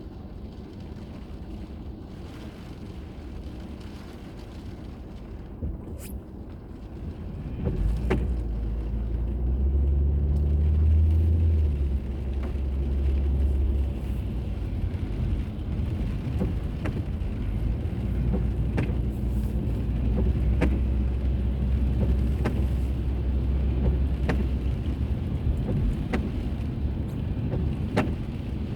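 A car driving, heard from an onboard camera: a steady low road-and-engine rumble that gets much louder about eight seconds in and stays so, with scattered small clicks.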